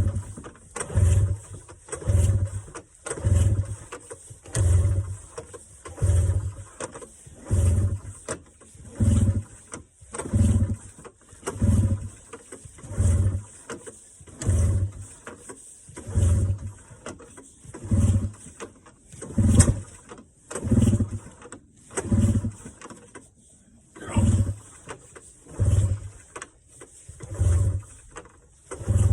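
Recoil pull starter of a cold small engine yanked again and again, about twenty pulls one every second and a half. The engine turns over briefly on each pull and does not catch.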